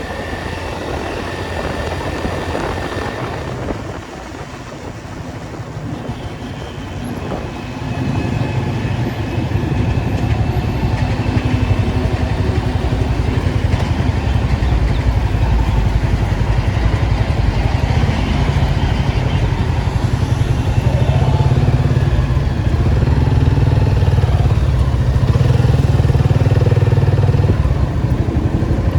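Datsun 280Z's straight-six engine and exhaust running on the move, quieter for the first several seconds, then louder and steady from about eight seconds in.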